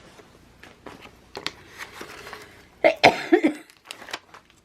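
Light rustling and clicks from sticker sheets and planner pages being handled, with a short cough about three seconds in.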